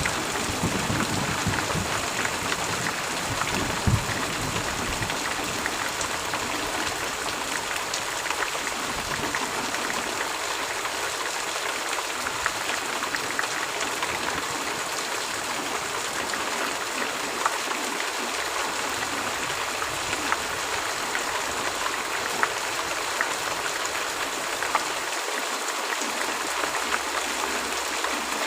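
Heavy rain: a steady, even hiss of rainfall with scattered drops ticking through it. A low rumble of thunder dies away over the first several seconds.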